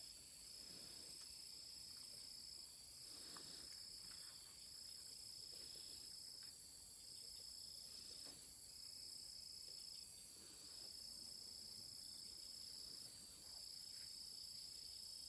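Faint insect trilling: a steady high-pitched chorus that dips briefly every two seconds or so, with a few faint soft knocks beneath it.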